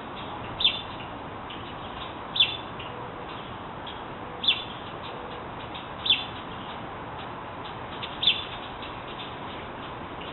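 Baby birds chirping: short, high chirps that slide downward, five louder ones about two seconds apart with fainter chirps in between, over a steady background hiss.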